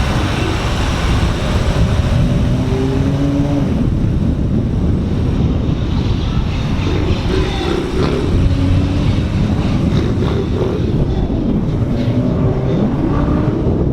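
Car driving slowly, with steady engine and road rumble and an engine note that rises and falls several times as it moves along.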